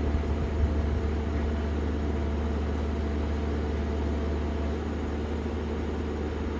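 An engine running steadily, an even low rumble with a faint steady hum above it.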